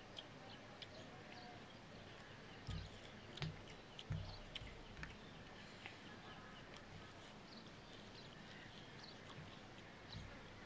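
Faint eating sounds of people eating biryani by hand: scattered small mouth clicks and chewing, with a few soft low thumps a few seconds in.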